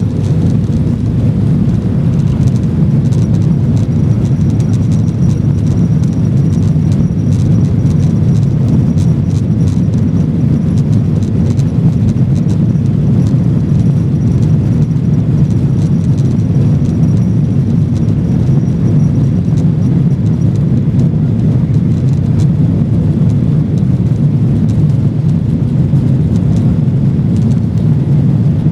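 Steady low rumble of a Boeing 737-900ER's CFM56-7B jet engines heard inside the passenger cabin, with scattered light rattles and a faint high whine that fades out after about twenty seconds.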